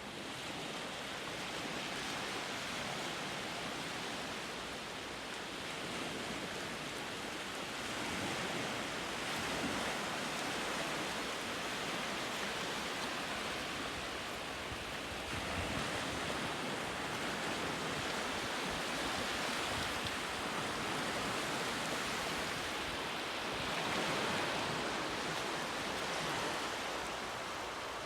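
Sea waves washing onto a shore: a steady rushing surf that swells a few times as bigger waves come in.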